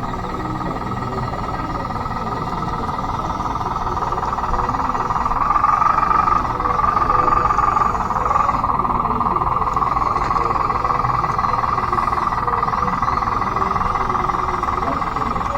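Steady whine of a converted Bruder D5 RC bulldozer's electric drive and gearbox, swelling slightly a few seconds in.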